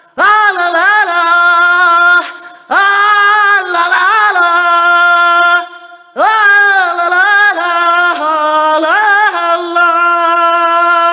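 A woman's voice chanting without accompaniment in three long held notes on nearly the same pitch. Each note starts with a quick upward scoop and wavers slightly.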